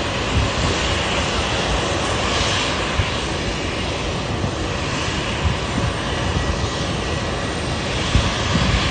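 Jet airliner engines running steadily: a dense, even noise with a faint steady whine and slow swells in the upper range, and low thuds here and there.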